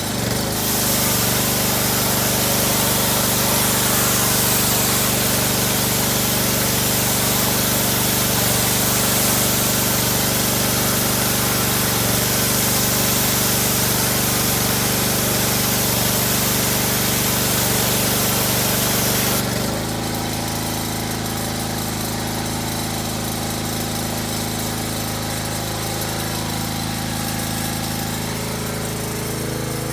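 Honda-engined pressure washer running steadily while spraying water through a clogged radiator, the spray hissing loudly until it cuts off about two-thirds of the way in. The engine then keeps running without the spray.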